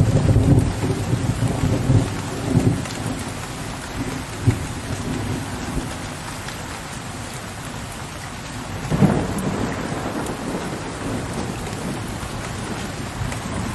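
Steady rain with rolling thunder: a low rumble fading over the first few seconds, then a louder thunderclap about nine seconds in that rumbles away.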